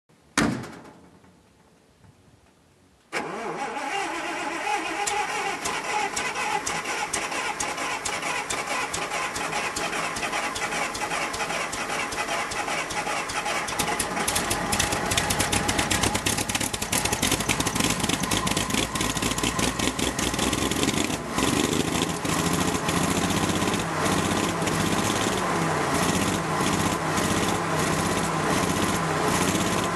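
Volvo A6 straight-six petrol engine of a 1954 Volvo 912 cold-started at −13 °C after standing a month. A thump comes at the very start, and about three seconds in the engine starts and keeps running, growing a little louder about halfway through.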